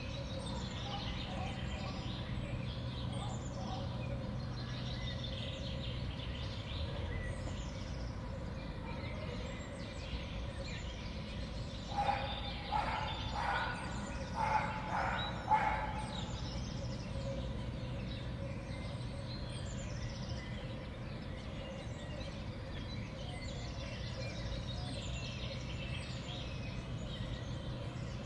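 Small songbirds chirping and calling around a winter feeder, over a steady low background hum. About halfway through, a louder run of five or six harsher calls stands out for a few seconds.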